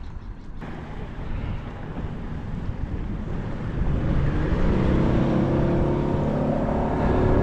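A motorboat engine running steadily and growing louder from about four seconds in, as it draws nearer, over wind rumble on the microphone.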